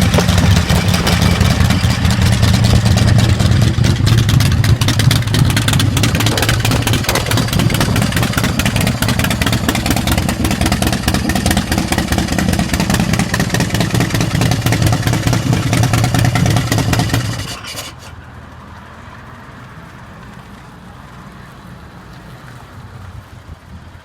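Ultima 127 cubic inch V-twin motorcycle engine running with a steady, loud exhaust pulse. About seventeen seconds in it is shut off and stops abruptly.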